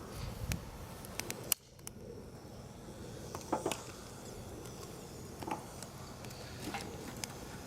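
Wood campfire crackling: scattered sharp snaps and pops over a steady low hiss, with one louder pop about a second and a half in.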